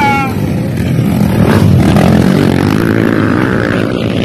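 Motocross dirt bike engines running, a loud steady drone.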